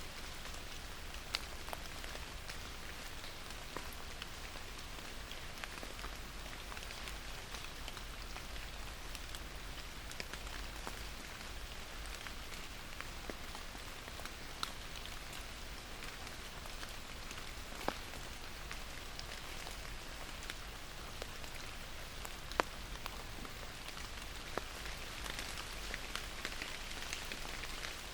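Steady rain falling, an even hiss with scattered louder drops ticking close by, a couple of sharper ones about 18 and 22 seconds in.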